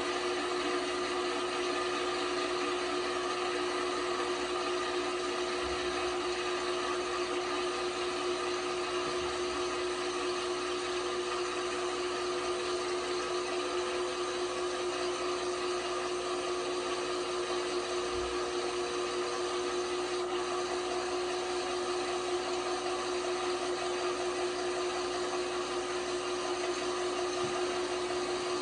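LG washing machine running with a steady motor whine that holds one pitch throughout, without the stop-start of a wash tumble.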